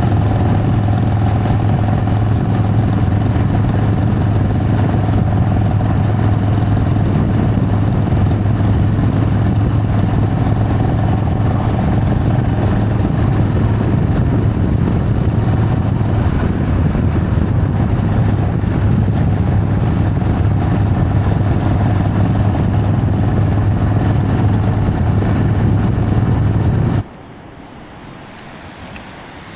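Harley-Davidson Sportster V-twin engine running at a steady cruise on the road, a constant low drone with wind and road noise and no revving. Near the end it cuts off abruptly to a much quieter steady hiss.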